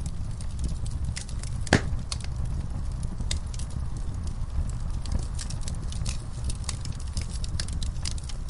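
Burning logs in a fireplace crackling: a steady low rumble of flames with frequent sharp pops and snaps, the loudest pop just under two seconds in.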